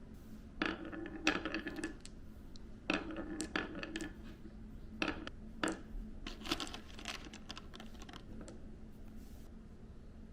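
Balls clicking and clattering down a marble run's twisting track, in several rattling runs of quick knocks. It goes quieter after about eight seconds.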